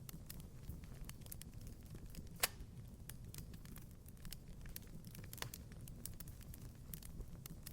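Wood fire crackling in a fireplace: irregular small pops and snaps over a low steady rumble, with one louder pop about two and a half seconds in and another about five and a half seconds in.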